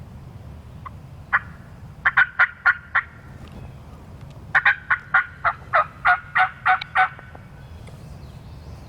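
Young wild turkeys (jakes) yelping: a single yelp, then a run of five quick yelps, then a longer run of about nine evenly spaced yelps.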